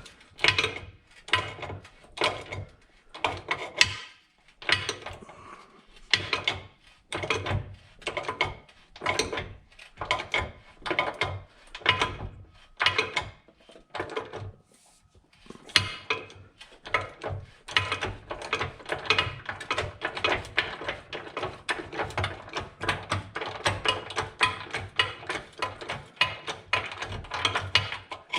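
Hand ratchet wrench clicking through repeated strokes as it turns a bolt. The clicks come in spaced groups at first and become a quicker, steadier run over the second half.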